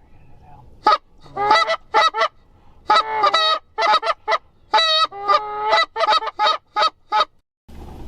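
Canada goose honking: a loud, quick run of a dozen or more honks and clucks, some drawn out and some clipped short.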